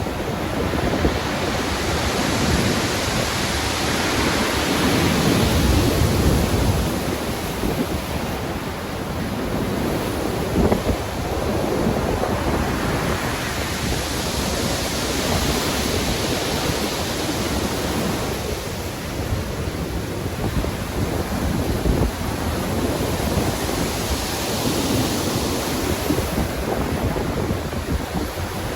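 Rough sea surf: waves breaking and washing in, swelling and easing about every ten seconds, with a deep low rumble on the first surge.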